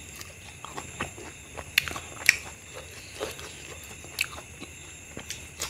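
Close-miked chewing and lip-smacking of a person eating mutton curry and rice, with irregular sharp wet mouth clicks, the loudest about two seconds in.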